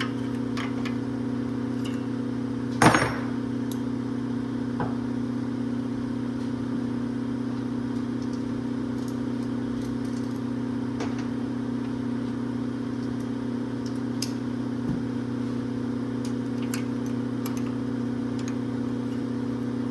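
A steady low mechanical hum throughout, with a single sharp metallic clank about three seconds in and a few light clicks and knocks of hand-tool work on the engine.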